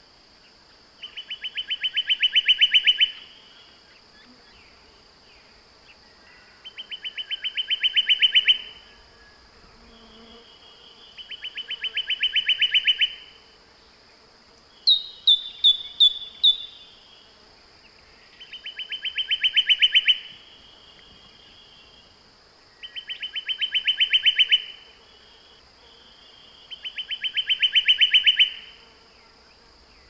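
A bird repeating a rapid trill that grows louder over about two seconds, roughly every four seconds. About halfway through, a second call of four or five quick, sharp falling notes comes in. A steady high-pitched whine runs underneath.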